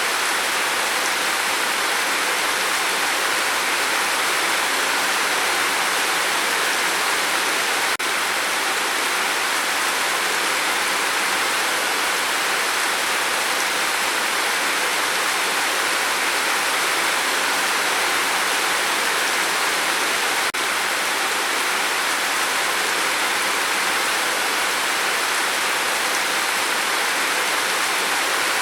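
Steady, dense rain falling, an even hiss with no single drops standing out. The level dips briefly twice, at about eight and twenty seconds in.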